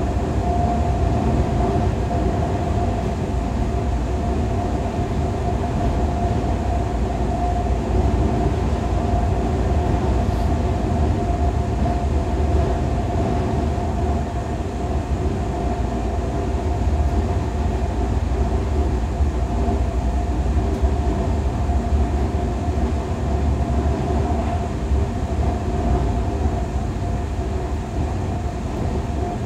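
Cabin noise inside a Taiwan Railway EMU3000 electric multiple unit running between stations: a steady low rumble with a constant mid-pitched hum above it.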